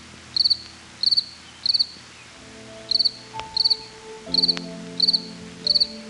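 Cricket chirping: short high trilled chirps repeating just under twice a second, with a brief pause near the middle.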